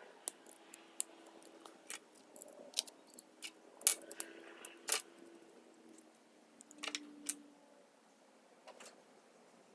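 Small metal carburettor parts (jets and screws) clicking and clinking as they are unscrewed and handled, an irregular run of light taps with two sharper clinks about four and five seconds in, thinning out after about seven seconds.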